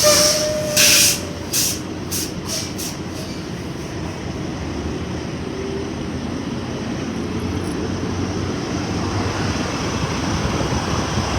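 Diesel fuel flowing from a truck-stop pump nozzle into a semi truck's tank as it is topped off to the rim after the auto shut-off, a steady rushing that grows slightly louder near the end. A few short sharp noises come in the first three seconds.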